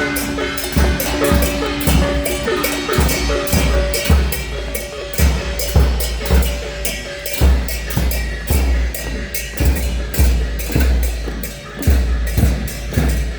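Procession drums and percussion beating a steady rhythm of repeated strikes, with a held tone sounding over them for about the first three seconds.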